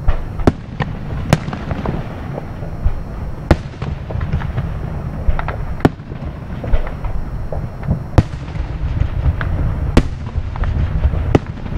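Distant aerial firework shells bursting: about seven sharp bangs, a second or two apart, with smaller crackles between them over a steady low rumble.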